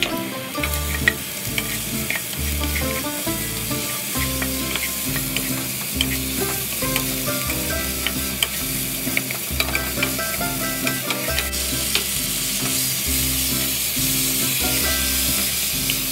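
Chopped onions and lemongrass sizzling in hot oil in a nonstick pot, stirred with a spatula that scrapes and clicks against the pan, over background music.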